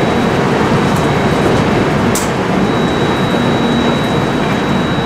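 Duronto Express passenger train running at speed: a steady, dense rumble of the coach on the rails. A thin, steady high whine joins in about two and a half seconds in.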